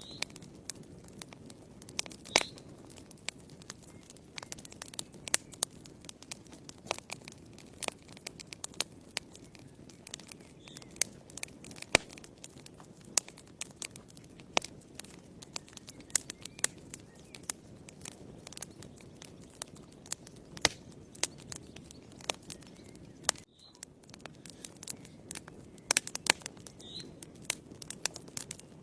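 Fireplace fire crackling, with sharp irregular pops and snaps over a low steady rush of flames.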